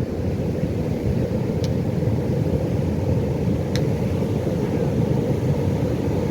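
Low, steady rumble of Pacific Ocean surf, with no distinct wave breaks standing out.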